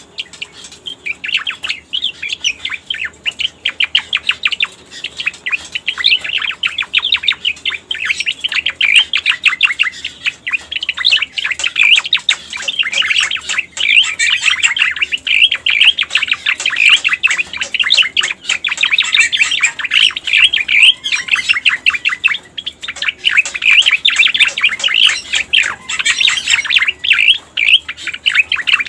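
Lure recording of a cica koreng (striated grassbird) singing: a long run of rapid, chattering chirps and warbles, with only brief pauses.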